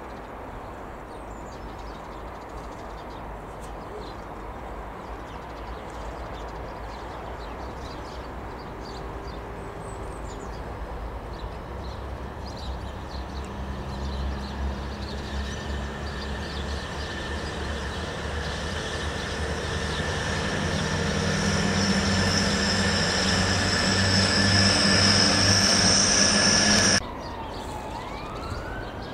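Hull Trains Class 802 bi-mode multiple unit passing, its running sound growing steadily louder as it nears, with a low hum and a high whine over it. The sound cuts off suddenly near the end, and a siren then rises and falls.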